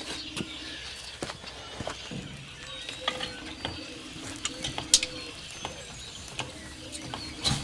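Birds calling and chirping, with scattered sharp clicks and knocks and a low steady tone that comes and goes several times.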